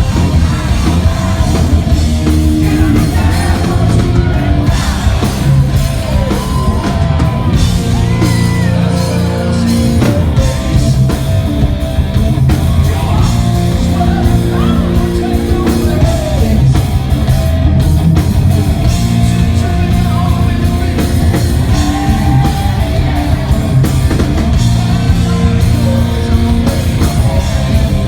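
Live hard rock band playing loudly in a large hall: distorted electric guitar, bass and drum kit, with a singer's voice over them, recorded from the audience.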